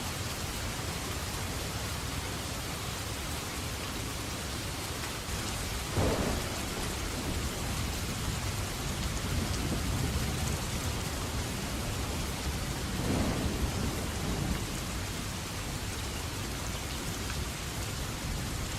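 Steady rain falling through a thunderstorm. About six seconds in, thunder breaks with a sudden crack that trails into a low rumble. A second, softer roll of thunder follows around thirteen seconds in.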